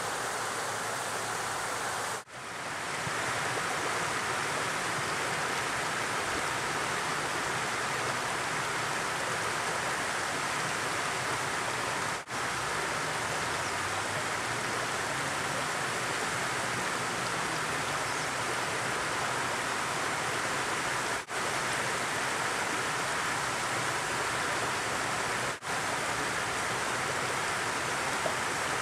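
Steady rushing of flowing water, an even hiss with no tones in it, broken by four brief dips in level.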